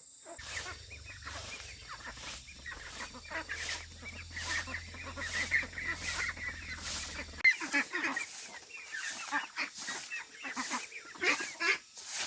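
A flock of chickens and ducks clucking and honking, many calls overlapping. Through it runs a regular swishing beat about every 0.7 seconds.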